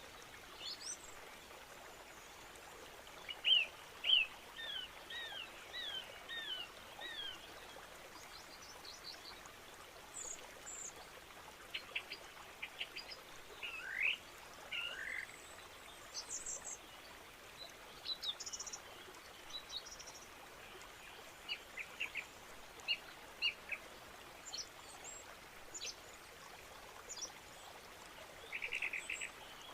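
Birds calling and chirping: scattered short high chirps and quick whistled notes, including a run of falling notes a few seconds in, over a steady background hiss.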